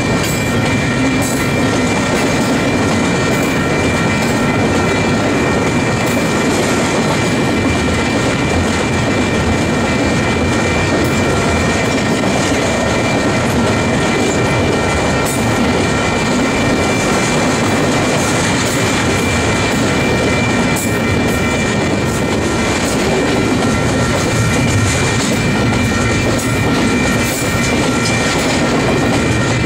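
Double-stack intermodal container train's well cars rolling past close by: a steady rumble with the clatter of wheels on the rails, and a steady high-pitched squeal over it.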